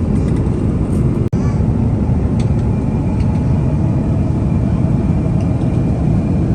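Steady low rumble of cabin noise inside an Airbus A350-900 airliner, from its engines and the air rushing past, unchanging apart from a momentary dropout about a second in.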